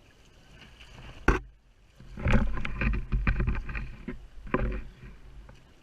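Water splashing and slapping against the hull of a Hobie Tandem Island kayak underway, in irregular bursts with a low rumble, and a sharp knock about a second in.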